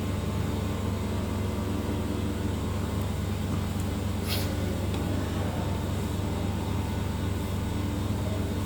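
Steady low hum of a TV panel bonding machine running with its vacuum on. A short hiss about four and a half seconds in.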